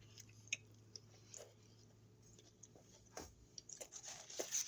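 Faint, scattered mouth clicks and small chewing sounds from a person eating quietly, a few sharp ticks about a second apart and more near the end.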